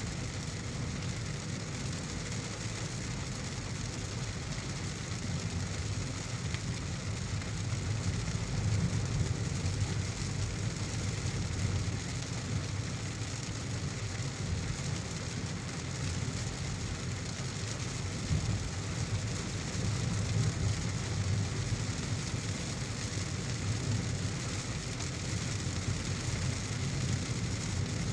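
Heavy rain falling steadily on a moving car, under the low, steady rumble of the car driving on the road.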